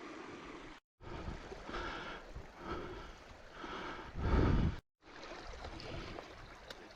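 Heavy, gasping breaths of a rider labouring over rough, boggy ground, with a dull rumble of wind or movement on the microphone that swells a little past the middle. The sound drops out to silence twice, briefly.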